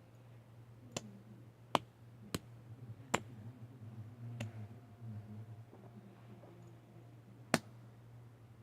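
Plastic fidget spinner being handled: about five sharp, irregularly spaced clicks, the loudest near the end, over a steady low hum.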